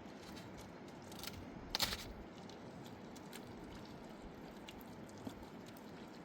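Two sharp knocks, a faint one about a second in and a louder one just before two seconds, over a steady rushing background noise.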